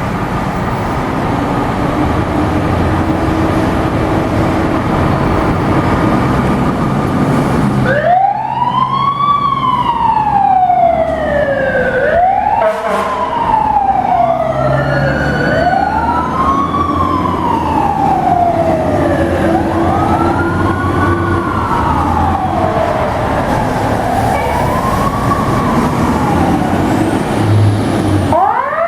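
Fire truck responding with its siren. About eight seconds of engine and road noise, then the siren wails, its pitch sweeping up quickly and sliding down more slowly, once every three to four seconds. A fresh wail starts near the end.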